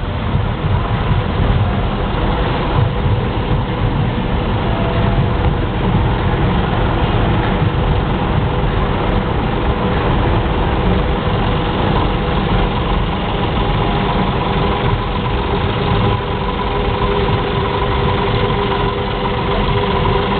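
Vehicle engine idling steadily, a continuous low rumble with no revving or breaks.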